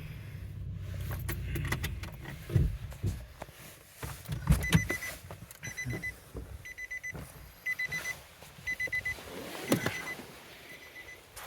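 Vehicle running with a low rumble and a few knocks, then a short high electronic beep repeating about every 0.7 seconds through the second half, a vehicle's warning chime.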